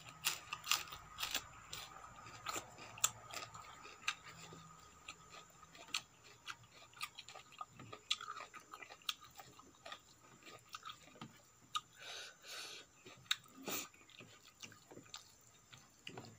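Close-up chewing of a raw mustard-green (lai saag) leaf: crisp crunches and wet mouth clicks, thickest in the first few seconds, then sparser. A few softer, longer rustling squishes come later.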